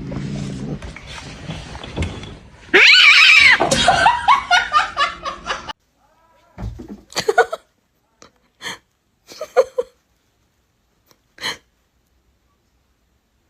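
A person laughing hard for about three seconds, starting with a loud, high cry. After that come a few short, sharp knocks or clicks, then quiet.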